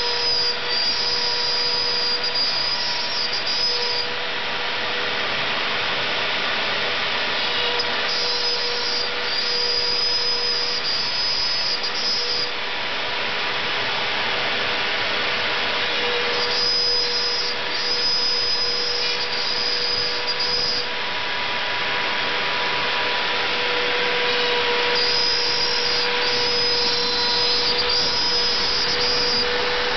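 CNC gantry router milling plywood: a steady motor whine over cutting noise, with a higher-pitched whine that comes in four times for about four seconds each.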